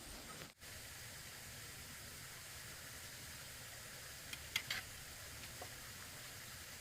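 Food frying in a pan: a steady low sizzle, with a couple of light sharp clicks about four and a half seconds in.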